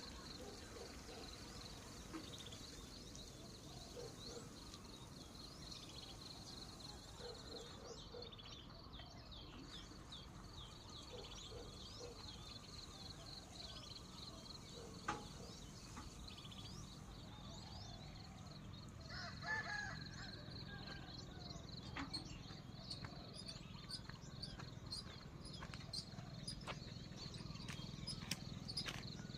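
Rural outdoor ambience: birds calling, including crow-like caws, over a steady high-pitched chirring, with a few faint knocks.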